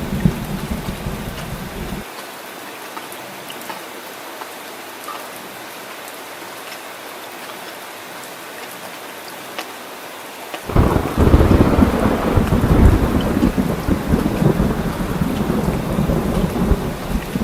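Steady rain falling during a thunderstorm. Rolling thunder cuts off about two seconds in, leaving only the rain hiss, then a loud thunderclap breaks about ten seconds in and rumbles on to the end.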